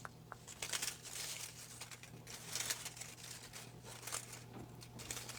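Paper slips rustling and crinkling as a hand digs through a hat of folded names and unfolds one, in a series of short, irregular rustles.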